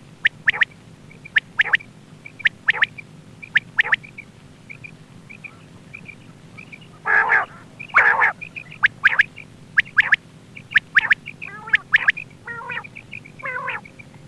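Recorded quail calls used as a hunting lure: short, sharp call notes repeating about once a second with faint high chirps between them, and louder harsh, rasping calls about halfway through and again near the end. A steady low hum runs underneath.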